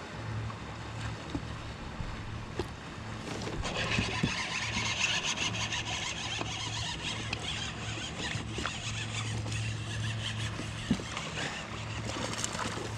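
Fishing reel whirring and its drag slipping with a rough, clicking sound as a hooked largemouth bass is fought, starting about three and a half seconds in. A low steady hum runs underneath.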